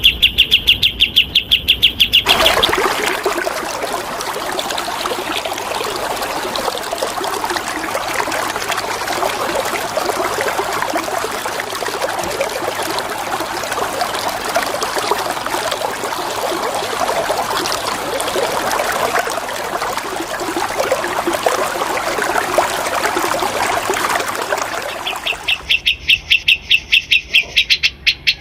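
Steady rush of flowing water, a stream or running-water recording. A bird's rapid, evenly repeated chirping is heard for the first two seconds and starts again near the end.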